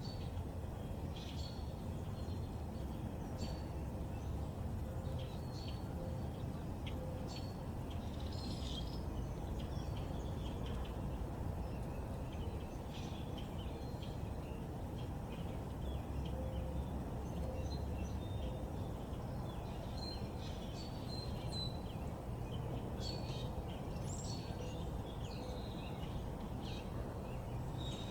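Backyard birds chirping, with many short calls scattered throughout, over a steady low background rumble.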